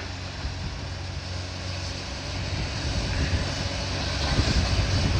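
Heavy demolition machinery's engine running steadily with a low drone, growing louder near the end.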